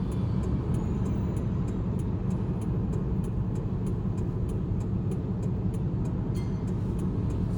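Ram pickup truck's engine idling, heard from inside the cab as a steady low rumble, with a faint even ticking about three times a second.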